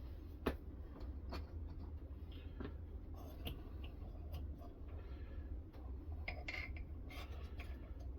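Irregular light clicks and taps from the metal parts of a clamp-style knife sharpening system being handled and adjusted, over a faint steady low hum.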